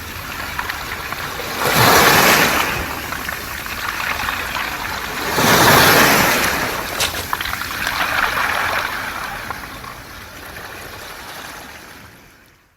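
Waves washing up a beach of round pebbles, with two big surges about 2 and 6 seconds in and the hiss and light clicking of water draining back through the stones. The sound fades out at the very end.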